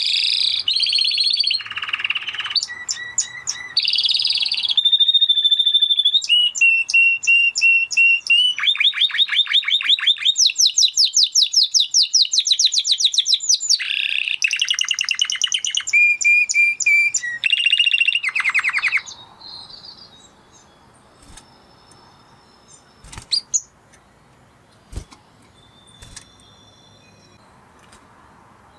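Spanish Timbrado canary singing a long song of rapid trills, rolling repeated notes and held whistled notes. It stops about two-thirds of the way through, leaving only a few faint clicks and short chirps.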